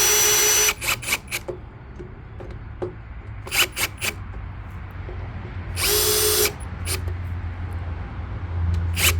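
Handheld power drill-driver running in two short bursts, one stopping just under a second in and another about six seconds in, with sharp clicks between them over a low background hum.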